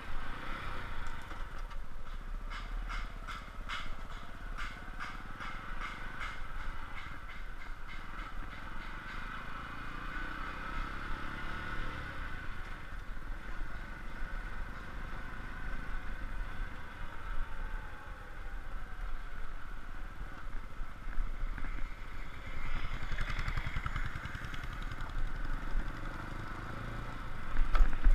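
Motorcycle engine running steadily as the bike is ridden along, with a stretch of rapid clattering for several seconds early in the ride.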